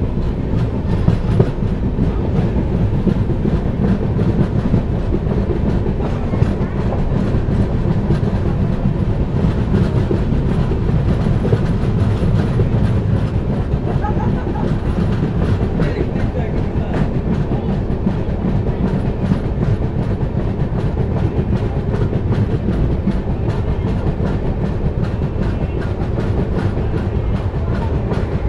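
A passenger train running at speed, heard from an open coach window: a steady rumble of wheels on the rails with clickety-clack.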